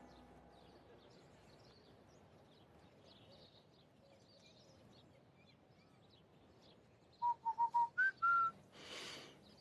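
Faint birds chirping, then a loud short whistled phrase about seven seconds in: four quick notes on one pitch, then a note sliding up and a held higher note. A brief rush of noise follows near the end.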